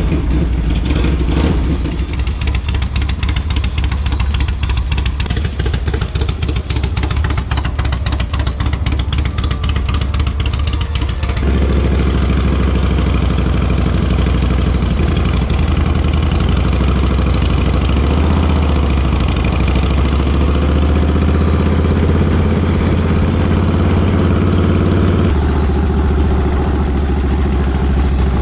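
Motorcycle engine running steadily with an even pulsing beat. The sound changes abruptly about a third of the way in and again near the end.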